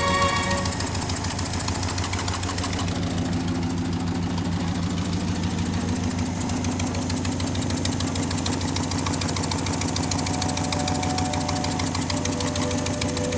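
An engine idling steadily with a rapid, even beat. Music fades in again from about ten seconds in.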